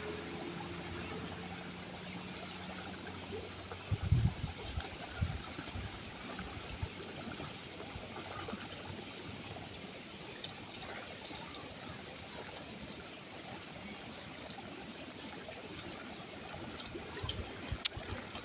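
Water trickling steadily, with a few short low knocks about four and five seconds in.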